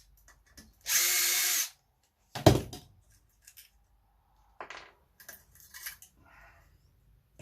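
Electric drill-driver spinning in one short steady burst of just under a second, followed about a second later by a single sharp knock and a few faint clicks of parts being handled.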